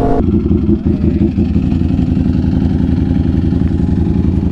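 Motorcycle engine running at a steady low rumble.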